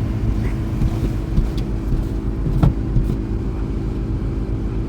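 A motor vehicle's engine running steadily, with a few short knocks over it.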